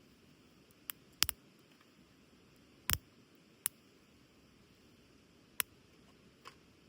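Wood in a small campfire crackling, with about seven sharp pops at irregular intervals, the loudest a double pop just over a second in.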